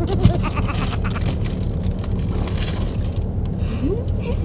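Steady low hum of a car's idling engine heard inside the cabin, with rustling and clatter from things being handled during the first three seconds.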